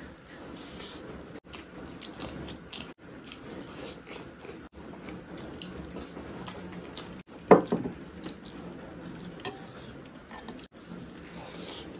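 Close-up mouth sounds of eating egg fried rice and boiled eggs by hand: wet chewing, lip smacks and small clicks. About halfway through there is one louder, sudden smack or knock.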